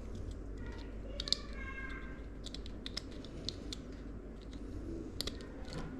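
Light, irregular clicks and taps of hands handling PC parts and cables, with a brief squeak about a second in, over a low steady room hum.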